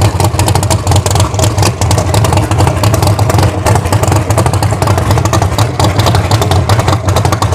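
Full-race Thunderbird drag car's engine running loud and steady, a fast, unbroken stream of firing pulses.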